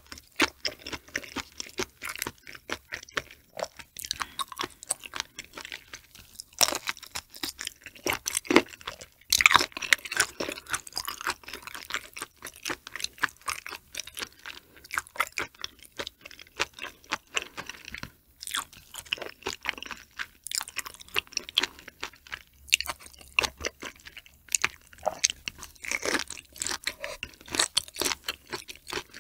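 Close-miked chewing of raw shrimp and green flying fish roe, wet and crunchy, with dense irregular crackling clicks.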